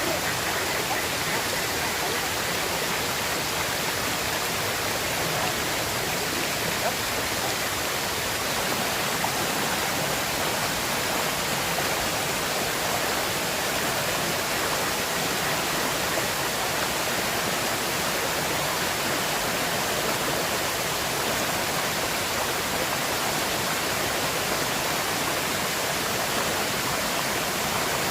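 A river flowing, its water rushing steadily and evenly.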